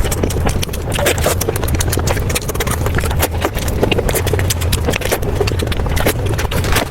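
A person eating close to the microphone: chewing and mouth clicks in a dense, irregular run, over a steady low hum.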